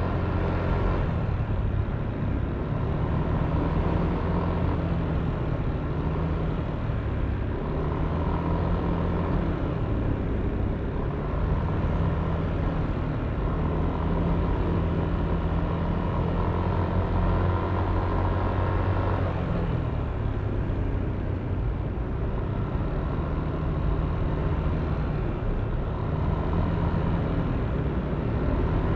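Yamaha Aerox V3 scooter's 155 cc single-cylinder engine running steadily under way, its pitch shifting slightly a few times, with road noise.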